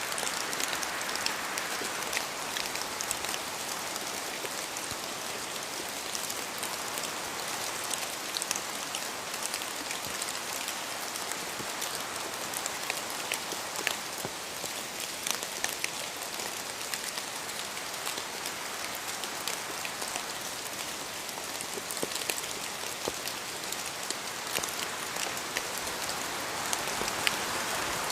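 Steady rain falling in a forest, with many separate drops pattering from the trees and the hiss rising and easing slightly every few seconds.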